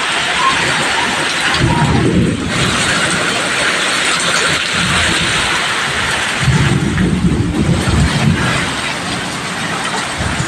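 Heavy rain falling steadily, with a low rumble twice, about two seconds in and again about seven seconds in.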